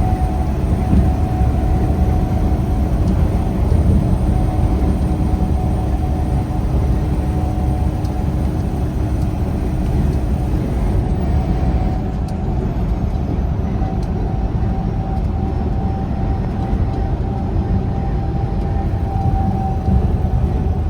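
Steady engine and road rumble of a semi-truck driving, with a faint steady whine above it.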